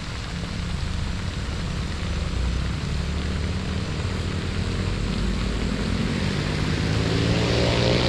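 A motor vehicle approaching, its engine hum getting steadily louder, with the pitch rising near the end.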